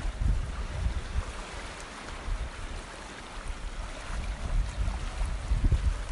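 Water running or washing, with wind buffeting the microphone in uneven low rumbling gusts that ease off midway and pick up again near the end.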